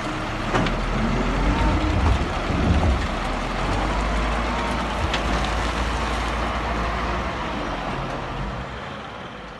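Heavy diesel machinery running, a steady low engine rumble with a couple of sharp knocks, easing off near the end.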